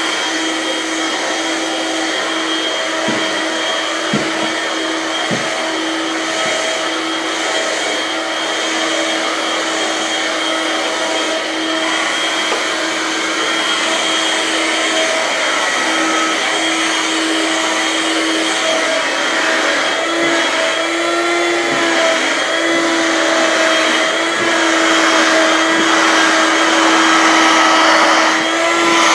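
Dirt Devil vacuum cleaner running steadily, a constant motor whine whose pitch wavers briefly now and then as it is pushed about, growing a little louder over the last few seconds.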